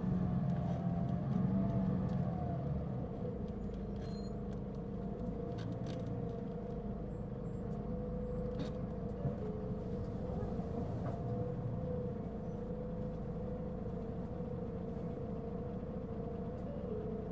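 Mitsubishi Fuso Aerostar city bus heard from inside the cabin while driving, its diesel engine running with a steady, strong whine on top: the loud abnormal noise this particular bus makes. The sound is louder for the first couple of seconds and then settles, with a few light rattles and clicks.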